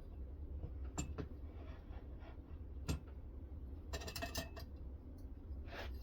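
Scattered sharp clicks and taps of metal and stone being handled on a knife-sharpening system, with a short run of ringing metallic clinks about four seconds in and a brief scrape near the end. A steady low hum sits underneath.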